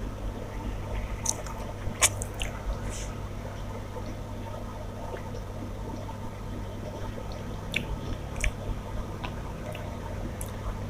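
A person eating rice and fish curry by hand: wet squishing of the food and chewing, with a few sharp clicks, the loudest about two seconds in.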